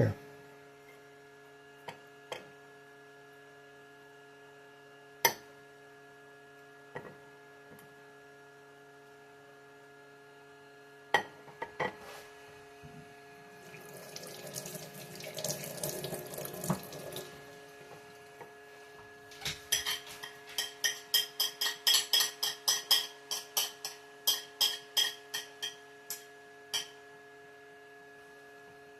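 Kitchen tap running for a few seconds midway, with scattered knocks before it, then a run of quick sharp clicks and taps, two to three a second, for several seconds. A steady electrical hum runs underneath.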